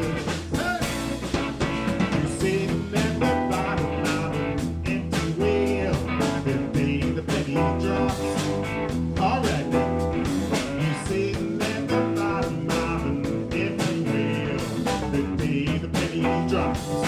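Live blues band playing an instrumental passage: electric guitar, keyboards, bass and a drum kit keeping a steady beat.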